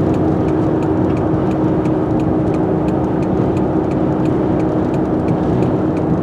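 Inside a car driving slowly through a dust storm: steady road and wind rush with a constant engine hum. A light, regular ticking at about three ticks a second runs under it.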